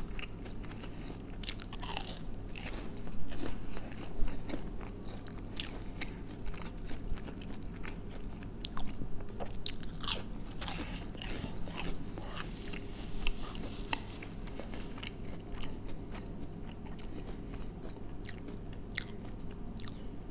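Close-up crunching bites and chewing of crisp fried onion rings: irregular crackles with louder crunches about three to four seconds in, around ten seconds in and near the end.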